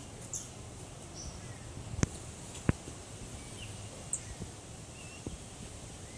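Outdoor background noise with scattered short, high chirps from small animals, and two sharp clicks about two seconds in and a little after.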